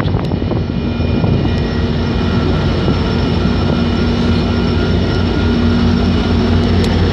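Amtrak passenger train's diesel locomotive running steadily while the train stands at the station, a continuous low hum with several held tones on top.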